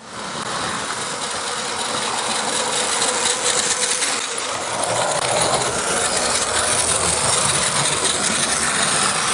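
Train running on the rails: a steady rushing rumble of wheels and running gear that grows slightly louder.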